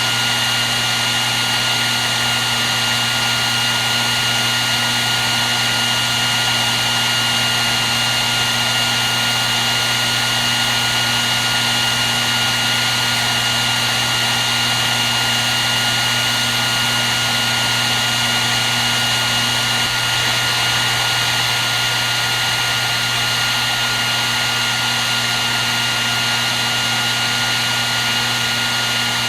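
Hair dryer running continuously: an even rush of blown air with a steady high whine from its fan motor and a low hum underneath.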